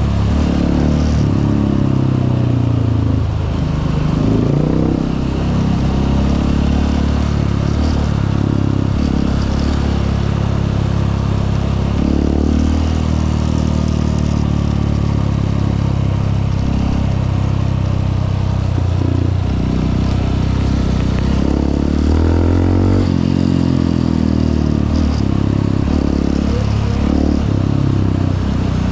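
Honda CRF150L's single-cylinder four-stroke engine running while riding, its note rising and falling several times as the throttle and gears change.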